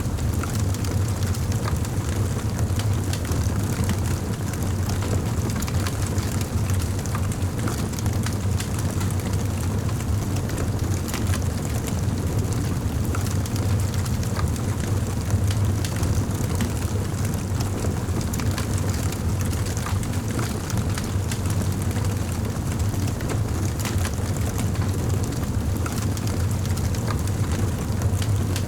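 Fireplace fire crackling, with frequent small pops scattered over a steady low roar.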